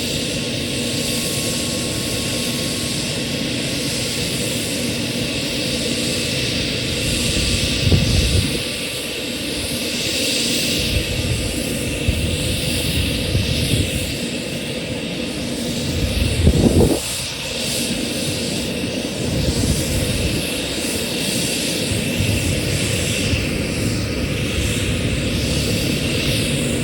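Military helicopter running during takeoff: a steady turbine and rotor noise, with two louder low rumbling surges about eight and sixteen seconds in.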